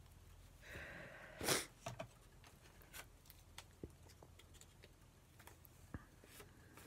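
Faint rustles and light ticks of paper postage stamps being handled and set down on a tabletop, with one brief louder burst of noise about a second and a half in.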